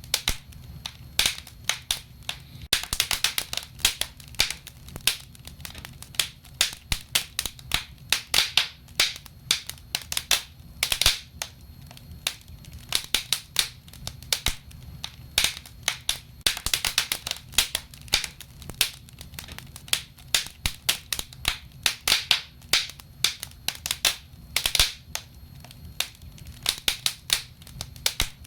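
Wood fire burning in a fireplace: irregular sharp crackles and pops, some coming in quick clusters, over a low steady rumble.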